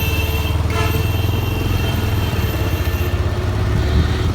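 Motor vehicle running in street traffic, a steady low rumble, with a short horn toot a little under a second in.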